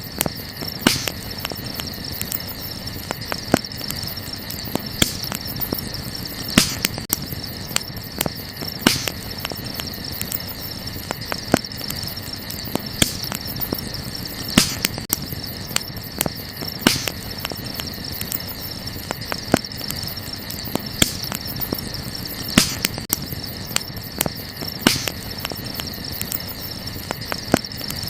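Wood campfire crackling, with sharp irregular pops every second or two over a steady hiss of burning. Behind it runs a constant high chirring of night insects.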